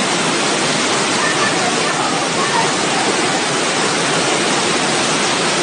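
Floodwater rushing: a loud, steady noise of fast-moving water, with faint voices beneath it.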